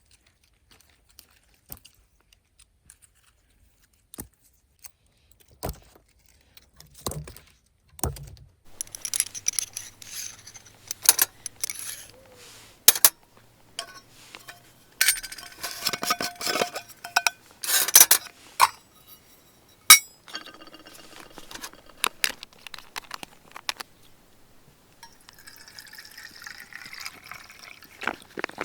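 Clinks and knocks of small hard objects being handled, sparse at first and busiest through the middle, with some clinks ringing briefly.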